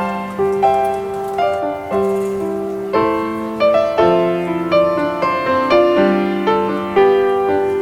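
Background piano music: a slow, gentle melody of notes struck at a regular pace, each ringing and fading.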